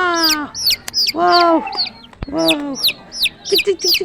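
Chicks peeping rapidly and without a break in high, falling chirps. Several longer, lower calls and a few short clucks from a grown chicken come in among them, the clucks near the end.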